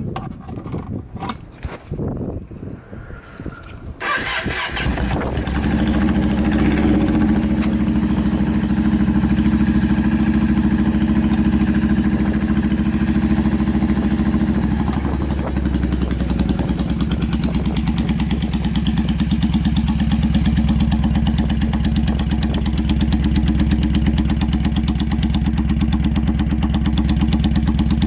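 Yamaha Drag Star 400 V-twin with short trumpet-style twin exhausts, starting after a few clicks and knocks about four seconds in, then idling steadily with an even pulsing beat.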